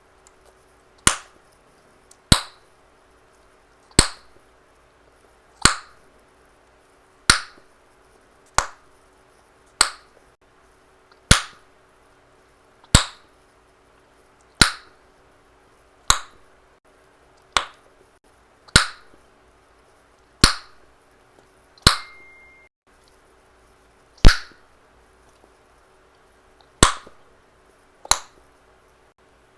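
Chewing gum snapped in the mouth: a sharp pop about every one and a half seconds, some eighteen in all.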